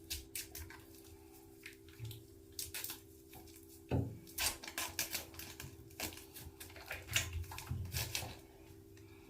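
Irregular clicks, taps and scrapes of a bath bomb opening tool picking at a hard dino egg bath bomb, getting busier about four seconds in.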